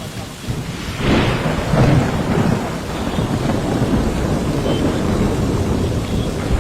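Heavy monsoon downpour: dense rain noise with a deep low rumble, growing louder about a second in.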